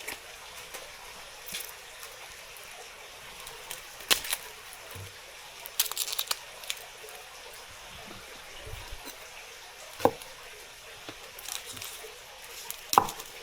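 Kitchen prep sounds: a few short, separate knocks and clicks of things being handled over a faint steady hiss, with some wet, liquid handling.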